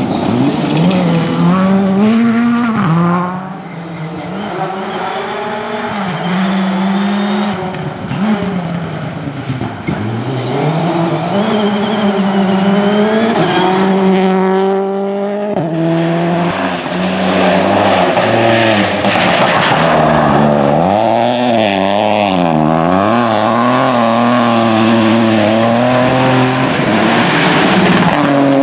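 Rally car engines at hard throttle on a special stage. The revs climb and drop back sharply again and again through gear changes and lifts, with a louder stretch from about 16 seconds on.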